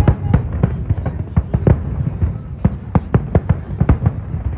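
Aerial fireworks bursting in a rapid, irregular string of bangs, several a second, over a continuous low rumble.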